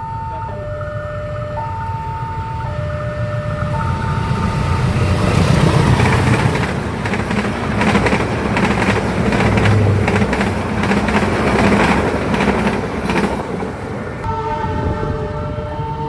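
A train passes, its wheels clacking over the rail joints; it is loudest from about five seconds in to near the end. A two-tone warning, alternating high and low about once a second, sounds at the start and again near the end, like a railway level-crossing alarm.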